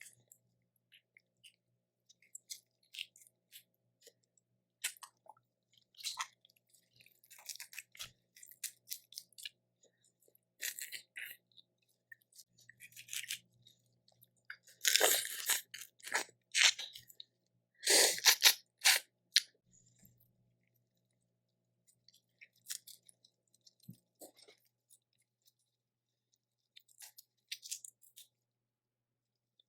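A person eating close to the microphone: chewing and crunching in short bursts, loudest in two clusters about halfway through.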